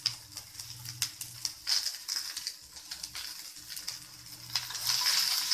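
Shredded cabbage and diced potatoes sizzling in hot oil in a nonstick kadhai, a soft hiss with scattered small crackles that grows louder near the end.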